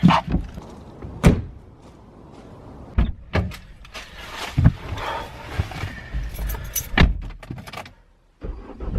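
Doors and keys being handled: a handful of sharp knocks a second or two apart, with jangling and rustling between. A low rumble comes in near the end.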